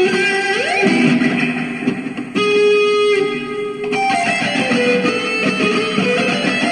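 Electric guitar, a Warlock-style metal guitar, played solo: a note slides up about half a second in, a long note is held from about two and a half seconds, and then a busier run of notes follows.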